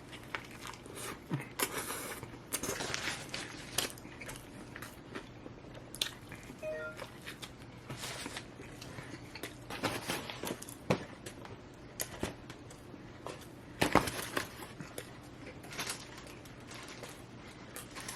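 A person biting into and chewing a fried fish sandwich close to the microphone: irregular crunches and mouth sounds of eating.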